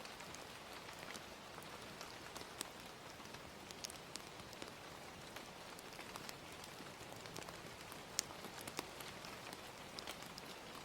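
Gentle rain falling steadily, mixed with a fire crackling in scattered sharp pops, one louder pop about eight seconds in.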